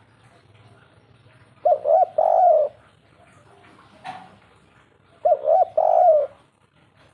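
Spotted dove (derkuku) cooing in the three-note 'kuk 3' pattern: twice, each phrase two short coos and then a longer drawn-out coo.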